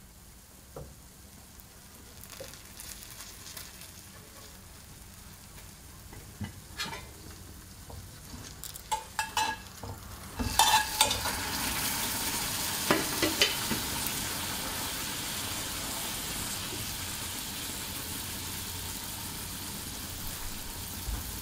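French toast frying in butter in a cast iron skillet: a faint sizzle with a few sharp clicks of metal tongs, then about halfway the slice is turned onto its honey-brushed side and the sizzle jumps suddenly loud and holds steady.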